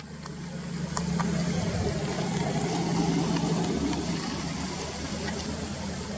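A steady, low engine hum, like a motor vehicle running nearby, swelling slightly after the first second, with a couple of faint clicks about a second in.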